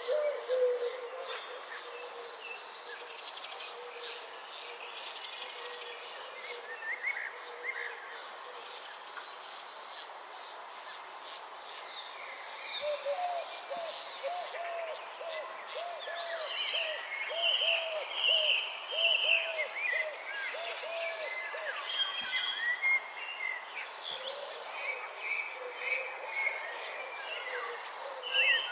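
Garden or forest ambience: a steady high insect trill that stops about eight seconds in and comes back near the end, with birds chirping throughout. In the middle there is a run of about a dozen low, evenly repeated calls.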